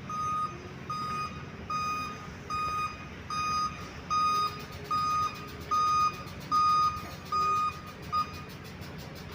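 Reversing alarm of a heavy vehicle beeping steadily, a single high tone about once every 0.8 seconds, over the low rumble of its diesel engine; the beeping stops after a short final beep about eight seconds in.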